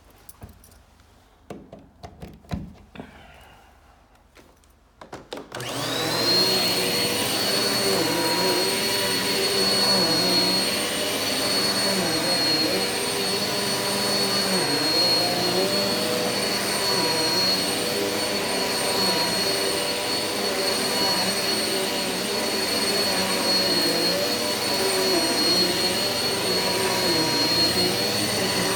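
A few light clicks and knocks, then a Eureka vacuum cleaner switches on about five seconds in and runs steadily for pre-vacuuming the carpet. It has a high steady whine over a lower hum that rises and falls in a slow repeating pattern.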